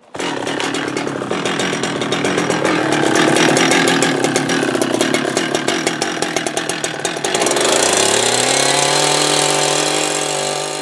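Petrol two-stroke chainsaw running at full throttle and cutting into pine wood, with a dense rattling chatter. About eight seconds in, the chatter gives way to a clear engine note that climbs and then holds steady.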